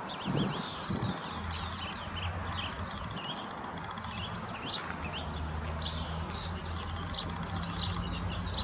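Many small birds chirping and twittering, with a low steady hum underneath from about a second in.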